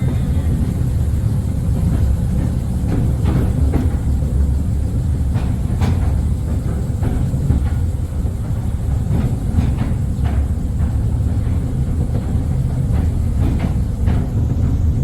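Mail Rail passenger train running on the narrow-gauge postal railway: a steady low rumble with irregular clicks and short squeals from the wheels and rails.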